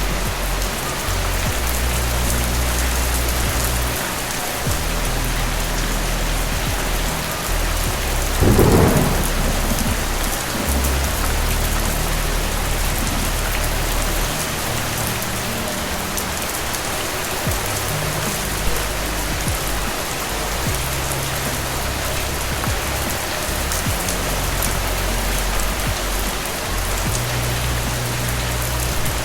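Steady heavy rain falling, with a single loud thunderclap about nine seconds in.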